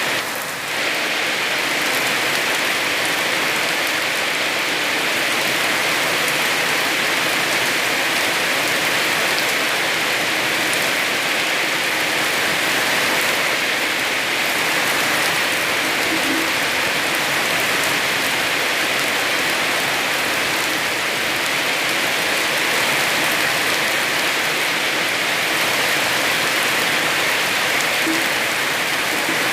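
Heavy rain falling steadily, a dense, even hiss of rainfall with no let-up.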